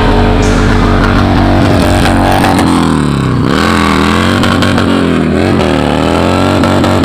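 Motorcycle engine running hard, its pitch dropping and climbing again twice as the throttle is let off and opened back up.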